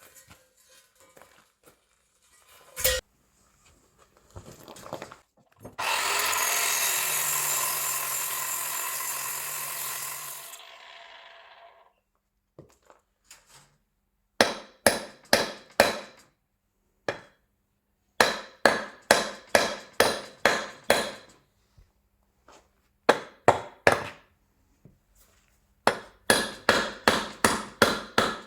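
Hammer blows on metal in a workshop: runs of sharp, ringing strikes, about three or four a second, in several bursts through the second half. Before them, a steady whirring noise from a tool runs for about five seconds and trails off.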